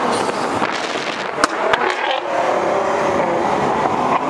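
Sports car engines running at road speed, heard from inside an open-top Lamborghini Aventador Roadster with wind and road noise. There is a sharp crack about a second and a half in.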